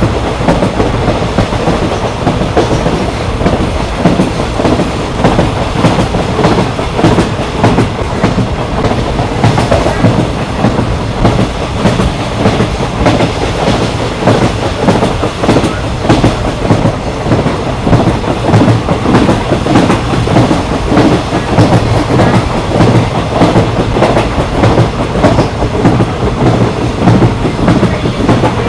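Moving train, its wheels clicking over rail joints in a rapid, uneven clatter over a steady rumble.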